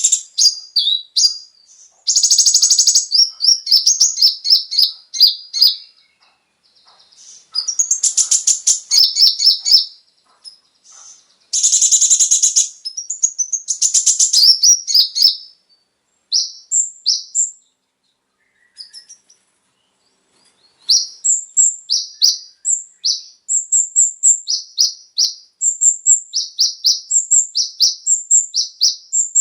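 Kolibri ninja (konin) sunbird singing: bursts of rapid, high-pitched trills and chattering broken by short pauses. From about two-thirds of the way through, the song settles into a steady run of sharp repeated notes, about two a second.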